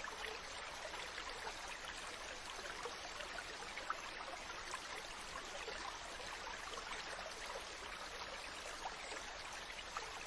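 Steady wash of ocean water, an even hiss with many small splashes and trickles.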